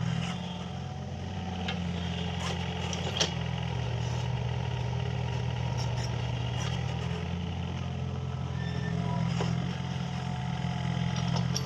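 Mini excavator's diesel engine running steadily under work, with a few short sharp clicks and knocks over it.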